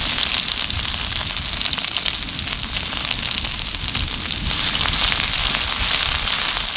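Ginger-garlic paste sizzling in hot oil in an aluminium kadai with mustard seeds and dried red chillies: a steady frying hiss with many small crackling pops.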